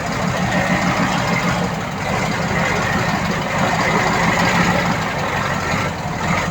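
Heavy diesel engine of earthmoving equipment running steadily under load, with a single short reversing beep near the end.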